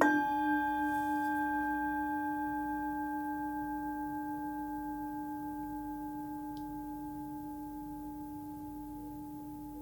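A hand-forged Nepalese singing bowl, 14 cm across and tuned to about 298 Hz (D), struck once right at the start and left to ring, its low fundamental and several higher overtones fading slowly with a gentle wavering.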